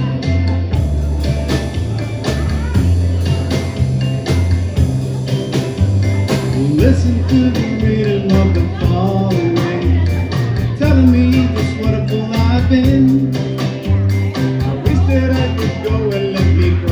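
Band music with a steady drum beat, a repeating bass line and guitar, with a wavering melody line on top.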